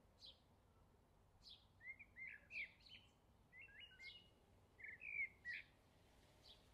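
Small birds chirping faintly: single short high chirps every second or so, with a quick run of varied twittering notes in the middle.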